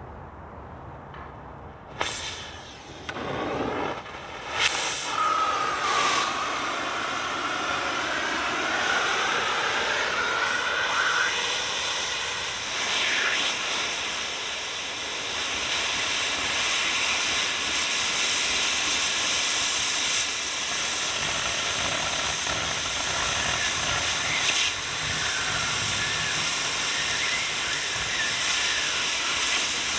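A cutting or gouging torch on the steel plate of a dozer blade: a loud, steady hiss. It starts in two short bursts, about two and about four and a half seconds in, and then runs on without a break.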